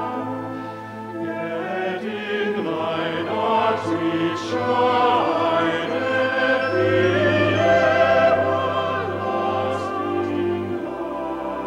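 Orchestral music with a choir and operatic voices holding long notes with vibrato. A low sustained bass note drops away near the end.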